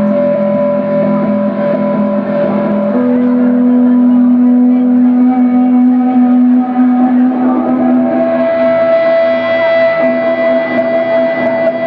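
Live band music: long held notes over a steady low drone, the upper note changing about three seconds in and again near eight seconds.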